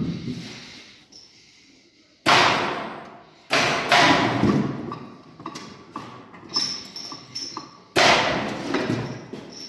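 Heavy metal parts and tools clanking and banging: four loud metallic strikes, each ringing out for about a second, with lighter clinks in between.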